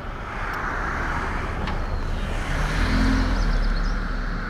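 A road vehicle passing, its tyre and engine noise growing to a peak about three seconds in and then easing off.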